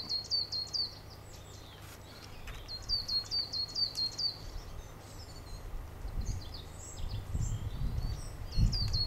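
A small bird calling in three quick runs of about eight high, sharp notes each, with low thumps and rumble near the end.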